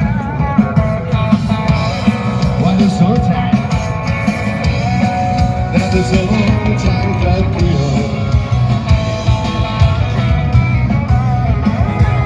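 Rock music with guitar and singing over a steady beat.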